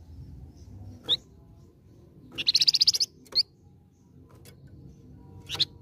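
Songbird sold as 'flamboyan' in the Indonesian cage-bird trade, singing: a few short, sharp high notes and one fast, loud trill of about ten notes near the middle.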